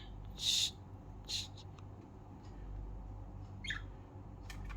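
Budgerigars giving a few short, harsh chirps and squawks, the loudest about half a second in and one falling chirp later on, over a low steady hum.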